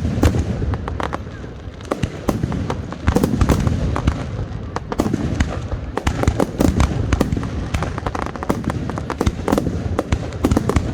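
Fireworks display going off: many sharp cracks and pops in quick succession over a continuous rumble of booming shell bursts.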